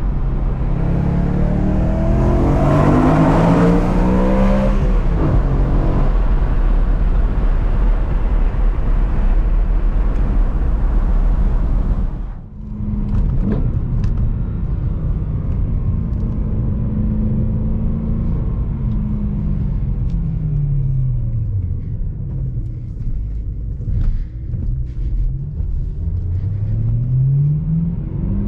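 BMW E92 M3's V8 through an Akrapovic exhaust, the engine note climbing over the first few seconds and then holding steady. About twelve seconds in the sound dips sharply for a moment. Later the note falls away and then rises again near the end as the engine is revved back up.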